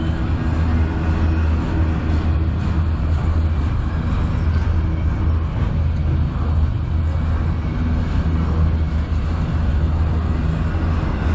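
Steady low vehicle rumble with a constant low hum and an even noise above it.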